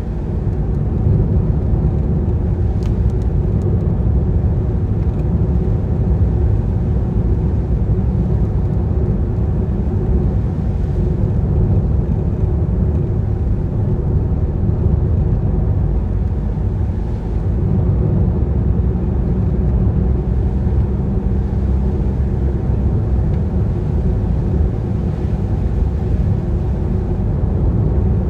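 A car on the move: steady low road and engine rumble with a faint engine hum, the level dipping and swelling a little with speed.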